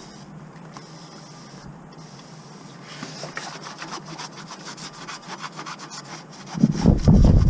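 Repeated scraping or rubbing strokes of work on metal parts, growing louder from about three seconds in. Near the end a much louder low rumbling with quick knocks begins.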